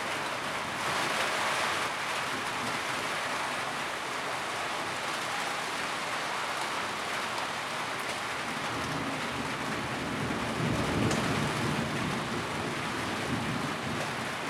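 Steady heavy rain drumming on a tin roof, a dense hiss of drops on the metal. It briefly grows brighter about a second in, and a low rumble swells about ten seconds in.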